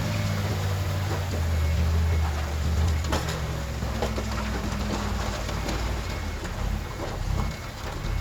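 Diesel engine of heavy earthmoving machinery running under load, building up after a second and easing off about four seconds in, with a few sharp knocks.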